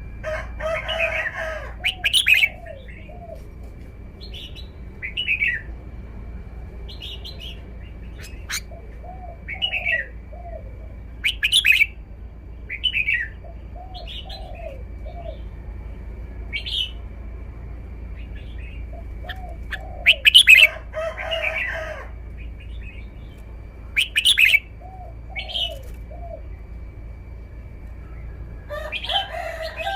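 Red-whiskered bulbul singing short, separate whistled phrases every second or two, with a few louder outbursts. Lower, repeated arched notes from another bird run underneath.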